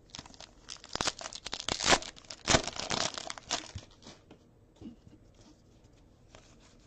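A trading card pack wrapper being torn open and crinkled by hand, a dense crackling for about three seconds, then faint rustles of the cards being handled.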